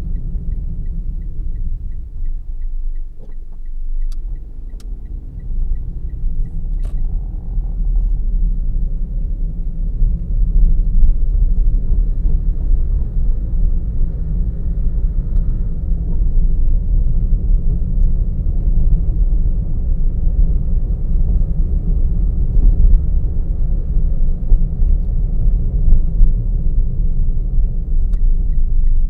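Car driving, heard from on board: a steady low rumble of road and engine noise that grows louder about ten seconds in. A faint, evenly spaced ticking is heard near the start and again near the end.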